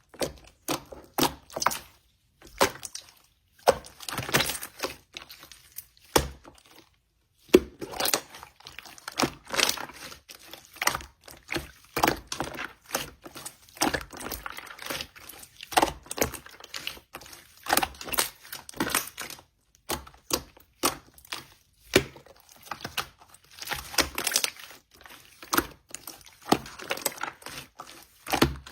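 Slime being pressed and squished by hand, making quick runs of sticky crackling clicks and pops in bursts with short pauses.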